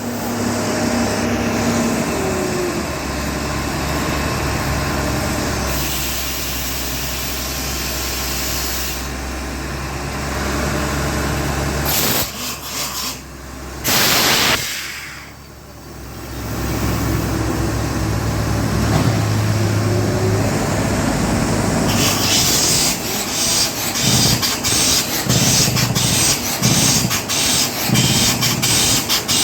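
Cummins diesel engine running on test after a water pump replacement, with a steady low drone. About halfway through there is a short loud burst, then the sound drops away briefly before coming back. In the last several seconds it becomes a fast, uneven pulsing.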